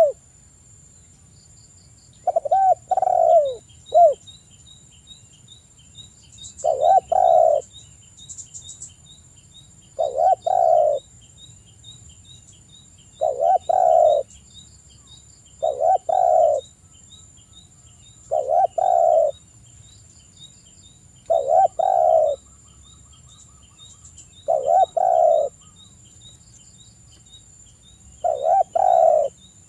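Spotted dove cooing its repeated phrase, about ten times, each call about a second long and roughly three seconds apart.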